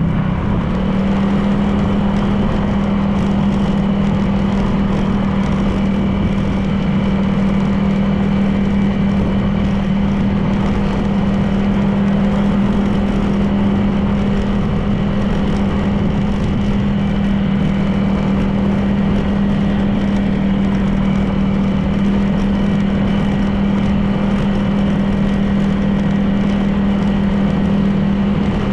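Honda PCX 160 scooter's single-cylinder engine running at a steady cruise, a constant drone with a brief dip in pitch at the start. Road and wind noise run underneath.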